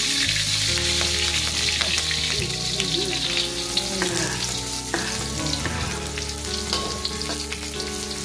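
Chopped shallots, garlic and chilli sizzling loudly as they hit hot oil in a wok. Over the sizzle a metal spatula clicks and scrapes against the pan as they are stirred.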